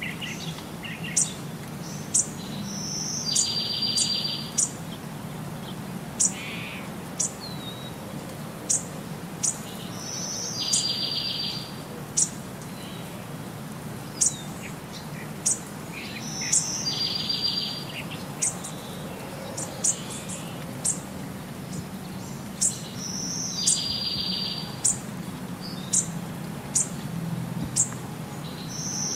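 Birdsong: short high chirps about once a second and a short rising note followed by a trill, repeating about every seven seconds like a looped background track, over a low steady hum.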